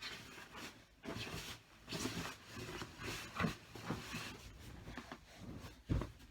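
Fabric bedding rustling as it is pulled and handled, in swells, with a couple of soft thumps, the loudest just before the end.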